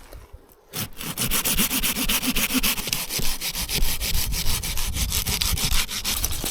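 Hand saw cutting through wood in rapid, even back-and-forth strokes, starting about a second in.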